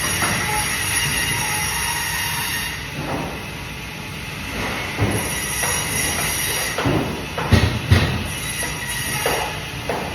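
Band saw running and cutting fish: a high steady whine that comes and goes in stretches as the blade cuts, with two loud knocks about three quarters of the way through.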